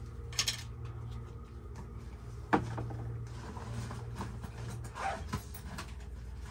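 Metal tools knocking against threaded black steel pipe fittings: a few light clicks and one sharp metallic knock about two and a half seconds in, over a steady low hum.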